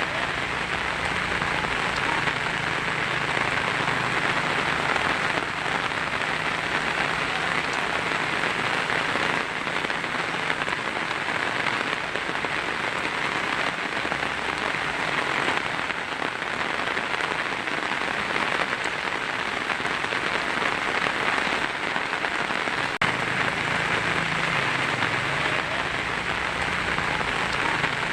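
Heavy rain falling steadily on a tin roof, a dense, even patter of drops on metal sheeting.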